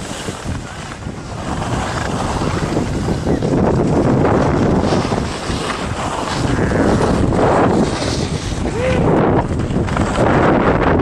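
Wind rushing over the microphone of a camera worn while skiing downhill, with the steady hiss and scrape of skis on snow, rising and falling in gusts.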